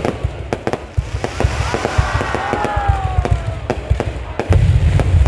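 Fireworks display: a rapid run of sharp bangs and crackles over deep booms of bursting shells, heavier in the last second.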